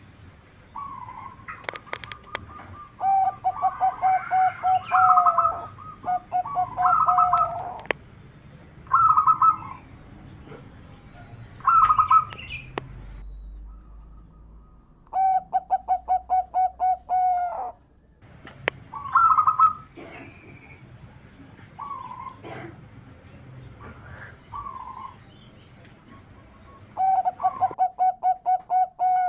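Zebra dove (perkutut) cooing: short clear notes alternate with longer, rapid stuttering trilled coos, each phrase a second or two long, repeating every few seconds. A few sharp clicks fall between the phrases.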